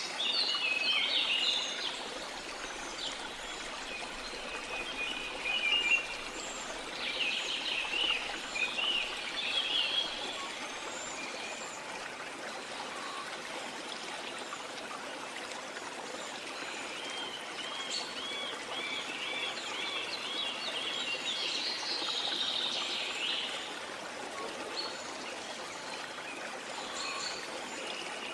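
Steady rush of falling water from a jungle waterfall, with birds singing and chirping over it in bursts. Partway through, one bird gives a run of quick, evenly repeated notes.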